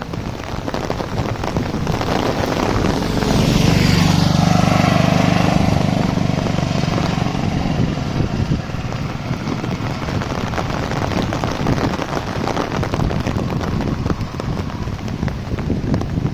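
A motor vehicle drives past close by, loudest about four seconds in, its pitch falling as it goes by. Steady heavy rain patters underneath throughout.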